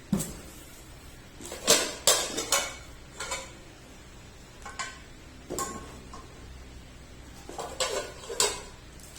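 Kitchen utensils and cookware clinking and knocking together as they are handled. The knocks come in short clusters of a few at a time.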